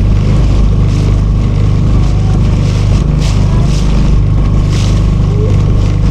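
Small motorboat engine running steadily at a constant speed, with a few short hisses about halfway through.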